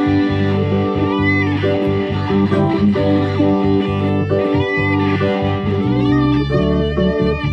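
Guitar-led instrumental passage of a rock song, with sustained chords and a few sliding lead notes about a second in and again around four to five seconds in.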